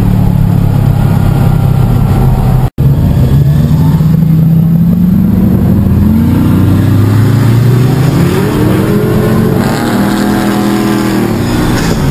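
Turbocharged Subaru WRX/STi flat-four engine in a 1973 VW 1303 Beetle, heard from inside the cabin. It runs steadily, cuts out for an instant, then revs hard with its pitch climbing several times.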